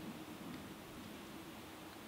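Faint, steady outdoor background noise with a low hum and no distinct event.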